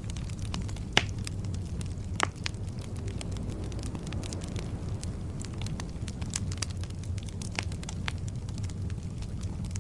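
Wood fire burning: a steady low rumble with scattered crackles and sharp pops of burning firewood, the loudest pops about a second in and a little after two seconds.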